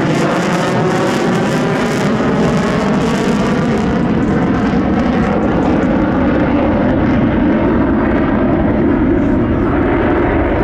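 An F-35 fighter's jet engine, loud and steady, as the jet flies past. Its hiss fades after about four seconds, leaving a deep rumble as the jet moves away.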